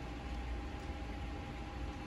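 Steady rain falling on a window, an even hiss, over a low rumble of city traffic.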